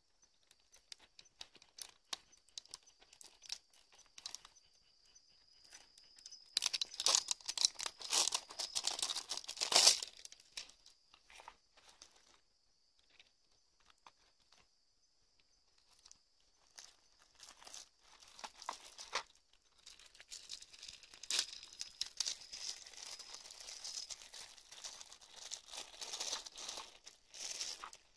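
Crinkling, rustling and tearing sounds of material being handled, coming in irregular bursts that are loudest from about six to ten seconds in and again in the second half, with a faint steady high tone underneath.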